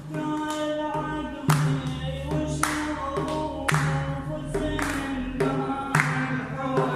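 Arabic folk music, a mawaliya: sustained singing over melodic accompaniment, with a drum stroke about once a second.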